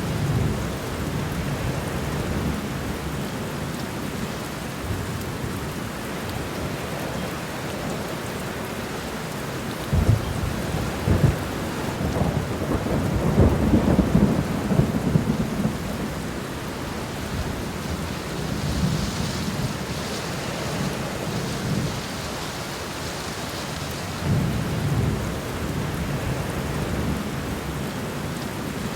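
Steady rain falling, with low rolling thunder that swells several times and rumbles loudest from about ten to sixteen seconds in.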